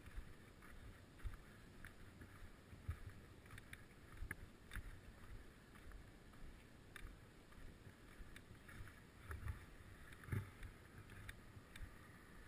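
Faint low rumble with irregular light clicks and knocks from a bicycle ride, with a louder low thump about ten seconds in.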